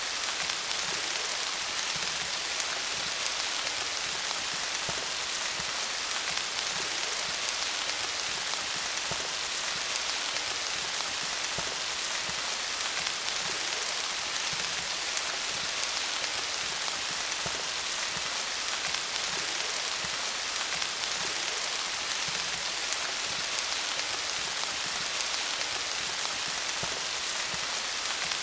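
Steady rain pattering on leaves, a dense even hiss of many small drop ticks.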